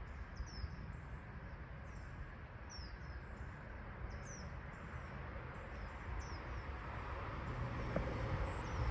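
Small birds chirping, with many short, quick downward-sliding chirps repeating every second or so, over a steady low outdoor rumble that gets a little louder near the end.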